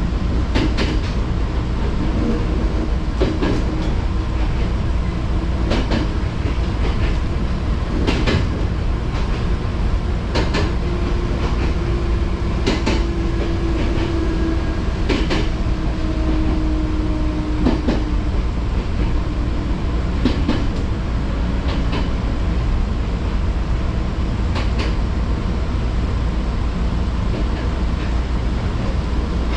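Fujikyuko Line electric train running, heard from inside: a steady low rumble with a sharp wheel click over the rail joints every two to three seconds, and a faint hum held for a few seconds in the middle.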